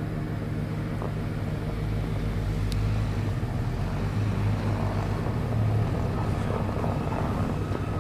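Car engine running under load, growing louder about a second and a half in as the car works its way out through deep powdery snow.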